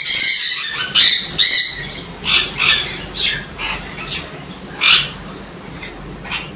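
Sun conures calling: a run of loud, short, high calls packed into the first two seconds, then scattered single calls, one of them loud near the five-second mark.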